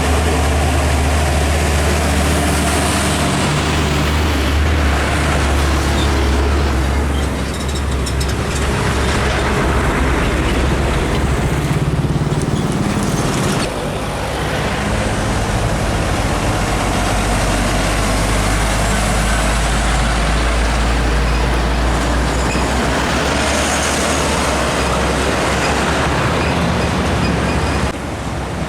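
Heavy diesel trucks passing on a highway: engines running with tyre and road noise. The low engine note changes and the sound dips briefly about halfway through.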